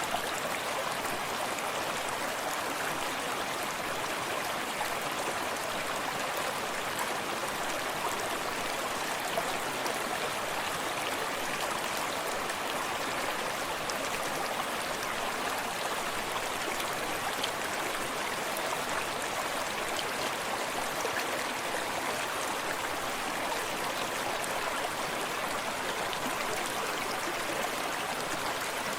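Forest stream running steadily over rocks, with close-by gentle splashing and trickles over an even rushing hiss.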